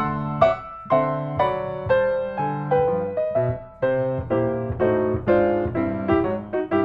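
Background music: a piano playing a melody over chords, with notes struck several times a second.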